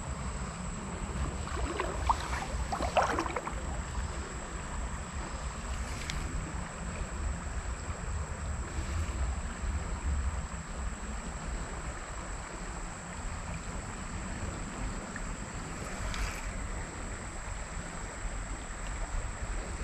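Wind rumbling on the microphone over flowing creek water, with a brief rough burst about two to three seconds in and a few faint ticks later.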